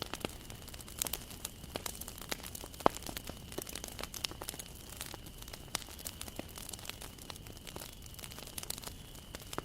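Wood campfire crackling, with irregular sharp pops and snaps from the burning wood, one louder pop about three seconds in.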